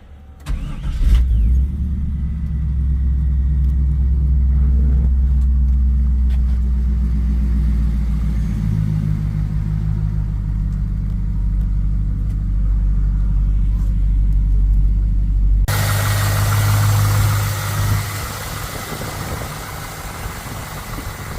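Fuel-injected 5.7L LS1 V8 with dual Magnaflow exhausts starting about half a second in, then idling with a steady low rumble. About three-quarters of the way through the sound changes suddenly, picking up more hiss and a brighter tone.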